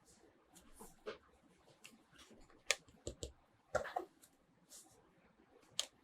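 Light, irregular clicks and taps of small plastic toy pieces and packaging being handled, with a few sharper clicks in the middle and one near the end.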